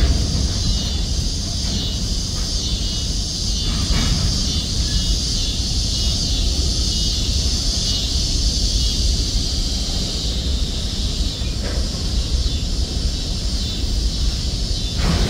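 Freight train's covered hopper cars rolling past, a steady low rumble of wheels on the rails with a constant high hiss above it.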